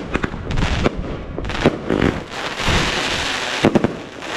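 Fireworks going off: a string of separate sharp bangs, then a dense stretch of crackling about two and a half seconds in, and a quick cluster of three bangs near the end.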